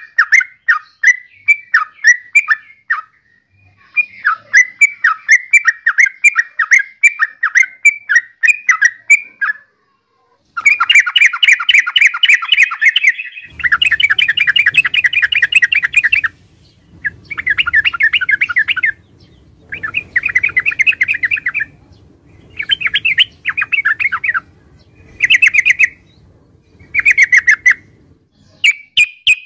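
Yellow-vented bulbul calling: quick runs of bubbly, chattering notes, at first a long series of separate notes for several seconds, then shorter dense bursts of one to three seconds with brief pauses between them. A faint low hum sits under the second half.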